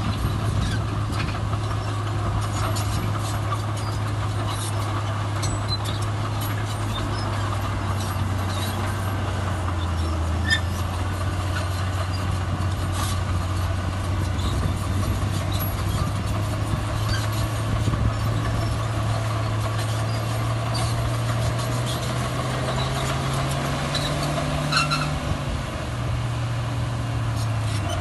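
Heavy diesel earthmoving machinery running steadily under load. The low engine note sags about a third of the way in, climbs near the end, then falls back, with scattered light clanks over it.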